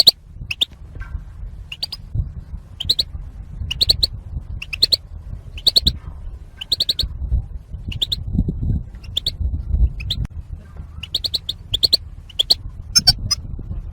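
European goldfinch call notes: short, sharp chirps in quick clusters of two or three, repeating about once a second, over a low background rumble. These are the goldfinch calls played to caged males to excite them into song.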